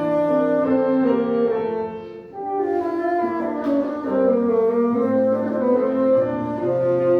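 Bassoon playing a melodic line of held notes over piano accompaniment, with a short break in the phrase a little over two seconds in.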